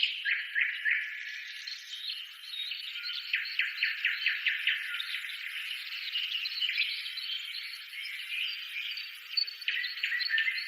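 Birds chirping and singing: many short high chirps and quick trills of rapid repeated notes overlapping each other, with no low sound beneath.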